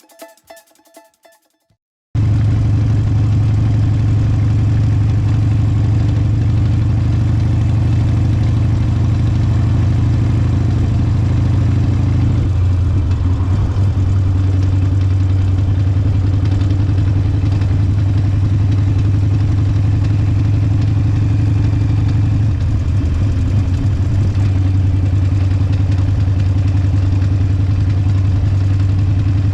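Harley-Davidson Forty-Eight's air-cooled V-twin engine idling steadily, cutting in suddenly about two seconds in, with its beat briefly changing twice along the way.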